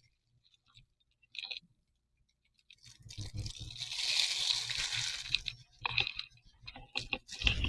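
Crackling, fizzing hiss of foam bubbling up, consistent with the elephant toothpaste reaction (hydrogen peroxide decomposing into foam). It starts about three seconds in and lasts a couple of seconds, followed by a few knocks of handled lab glassware and another short burst near the end.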